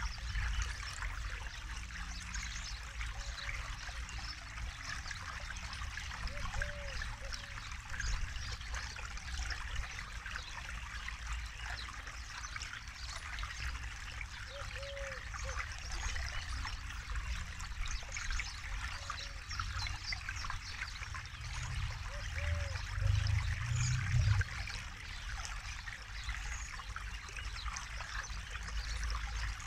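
Forest river water flowing and trickling steadily, with a short, low bird call repeated every several seconds. A low rumble swells briefly about 23 seconds in.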